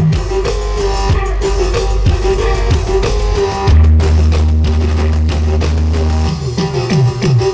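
Loud music with guitar and drums played through a large carnival sound system. A deep bass note is held from about halfway in, and a quick run of drum hits comes near the end.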